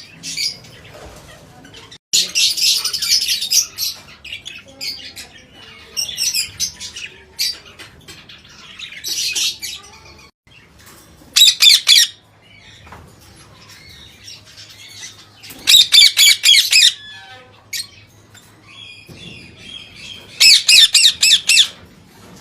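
A flock of parakeets calling: harsh squawks and chatter throughout, with loud bursts of rapid repeated shrieks about halfway through, again a few seconds later, and near the end.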